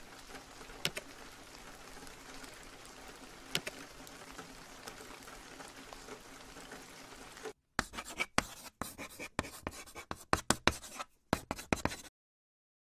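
Soft, steady rain ambience with a couple of faint clicks. About seven and a half seconds in it cuts out, and a run of sharp, irregular scratching clicks follows for about four seconds before stopping abruptly.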